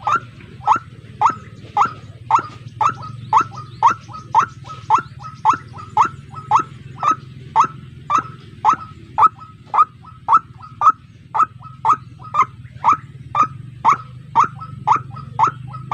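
White-breasted waterhen calling: a long run of sharp, evenly repeated notes about twice a second, over a steady low hum.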